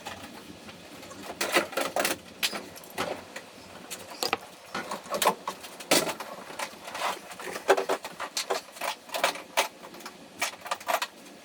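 Irregular sharp clicks and light knocks, one or two a second.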